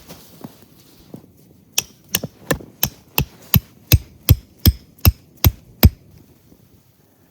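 About a dozen quick, evenly spaced hammer blows, roughly three a second, growing louder as they go and then stopping about six seconds in.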